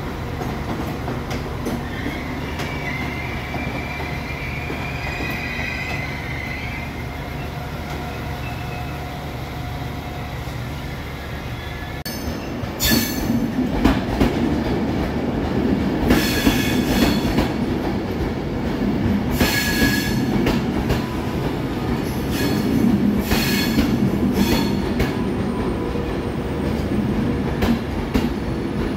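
Station train noise: a steady rumble with a faint high whine, then from about twelve seconds in an Avanti West Coast train rolling slowly past close by, its wheels giving several high squeals over the rumble.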